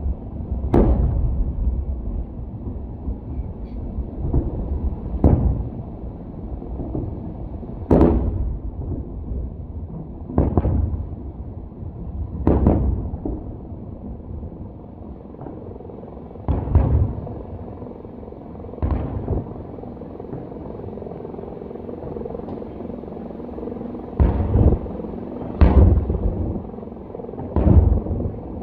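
Fireworks shells bursting overhead: about ten deep booms at irregular gaps of one to five seconds, with a low rumble carrying on between them.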